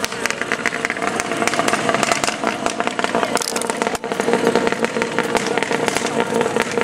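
Engine of a home-built amphibious Subaru car-boat running steadily under way on the water, with a rapid rattly crackle of firing pulses and a brief dip about four seconds in.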